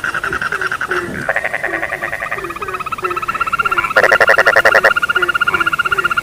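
Chorus of several frogs calling at once: overlapping rapid pulsed trills with a short lower croak repeating about twice a second. A louder, fast-pulsed call breaks in about four seconds in and lasts about a second.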